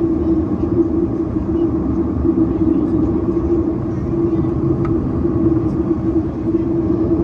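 Boeing 737-800 cabin noise in flight: a steady drone of engine and airflow with a constant low hum.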